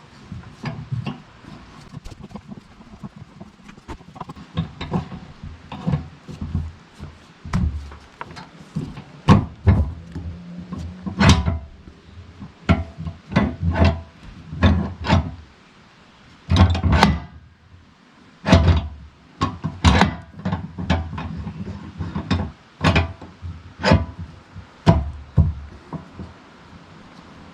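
Guitar music with plucked notes in an uneven rhythm.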